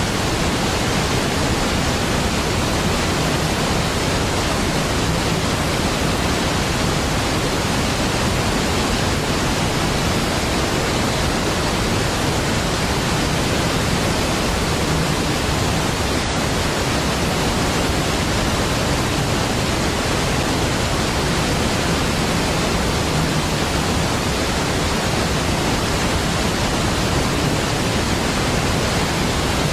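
Niagara Falls, a large waterfall: a steady, even rush of falling water that does not change.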